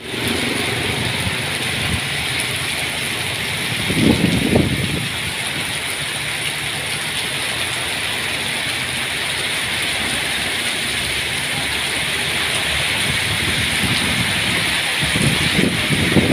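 Steady heavy rain hissing down, with the low rumble of passing traffic swelling about four seconds in and again near the end.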